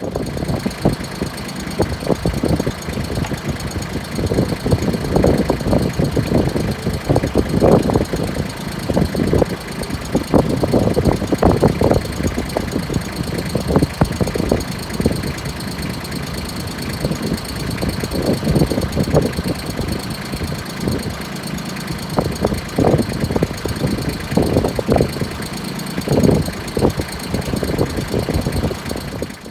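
Strong gusty wind buffeting the microphone in a 40–50 mph windstorm, a rumbling noise that surges and eases with each gust.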